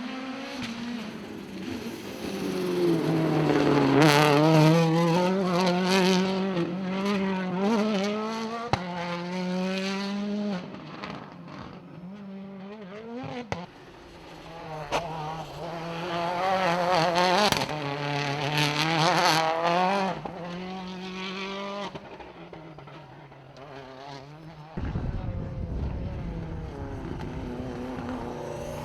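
Rally car engines revving hard, the pitch rising and falling quickly as the cars work the throttle, loudest in two long passes. Near the end a low rumble comes in.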